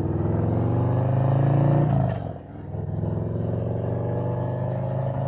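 Harley-Davidson Road Glide V-twin engine under way, pulling with rising pitch for about two seconds. It dips briefly, as at a gear change, then pulls steadily again.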